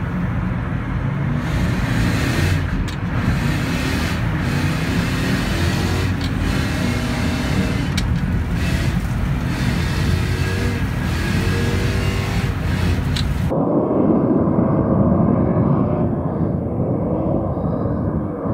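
BMW E39 540i's 4.4-litre V8 heard inside the cabin, revving up and down as the car is driven sideways on studded tyres over lake ice, with a few sharp knocks. About 13 seconds in the sound cuts to the same V8 heard from outside, still revving up and down as the car slides along.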